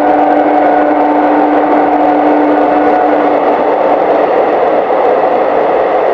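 DEMU passenger train running at speed through a tunnel, heard from an open carriage window: a loud, steady rush of wheel and running noise with a steady hum that fades out about halfway through.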